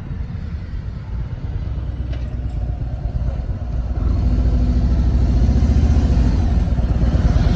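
Motorcycle engine running with a low, pulsing rumble that grows louder about four seconds in.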